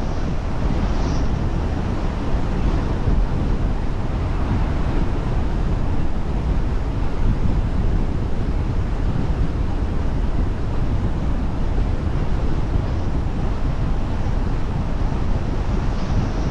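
Steady wind and road noise from a car being driven, with a heavy low rumble and no changes.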